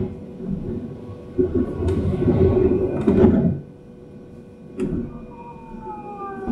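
Running sound inside a Taiwan Railways EMU700 electric commuter train: an uneven rumble that swells and fades, broken by a few sharp clacks. About five seconds in, a whine from the traction motors begins that slowly falls in pitch as the train slows.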